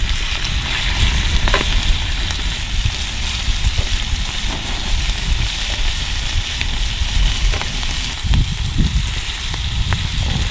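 Wood campfire burning: a steady hiss with a low rumble and scattered sharp crackles and pops.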